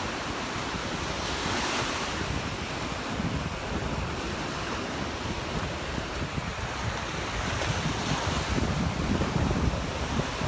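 Gulf of Mexico surf breaking and washing up the beach, with wind buffeting the microphone in a low rumble. A wave swells up about two seconds in.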